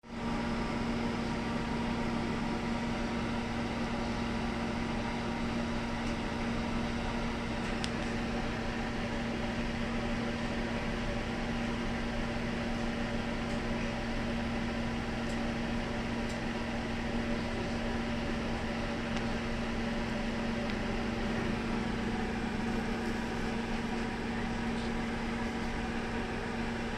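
Steady mechanical hum with a strong low tone, and a few faint clicks now and then.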